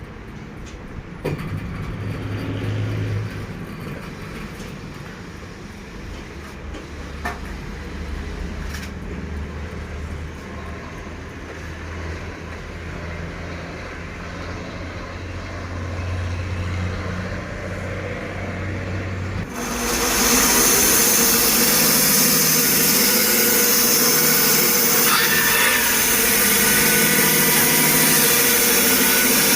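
Sawmill engine running steadily with a few clicks and knocks. About two-thirds of the way in, a much louder, steady hissing rasp starts abruptly as the band saw blade cuts into the log.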